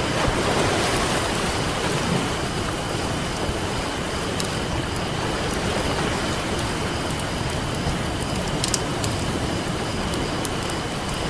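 Campfire crackling with scattered sharp pops over the steady wash of ocean surf. A wave swells in the first couple of seconds.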